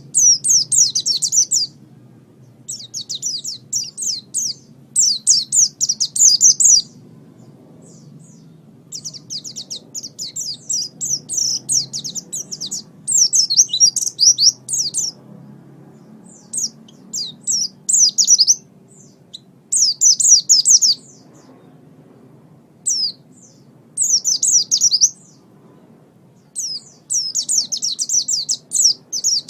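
White-eye (pleci) singing: fast, high twittering phrases of one to two seconds each, broken by short pauses.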